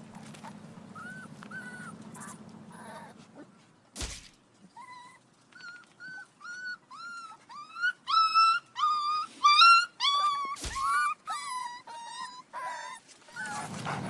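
Puppy whining in a long series of short, high-pitched whimpers that grow louder and more insistent partway through. There are two sharp clicks, one about four seconds in and one near eleven seconds.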